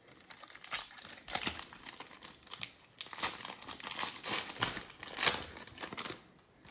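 A plastic trading-card pack wrapper being torn open and crinkled by hand, a run of irregular crackling that dies away near the end.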